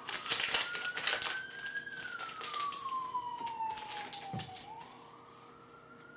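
Trading-card pack being torn open and the cards handled, a dense run of crinkles and clicks that stops about four and a half seconds in. Under it a siren wails, its pitch slowly rising, falling and rising again.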